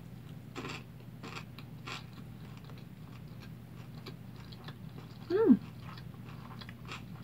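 Close-up chewing of a mouthful of tuna kimbap (seaweed rice roll), with soft wet clicks and smacks from the closed mouth. About five seconds in, a short hummed "mm" that slides down in pitch stands out as the loudest sound.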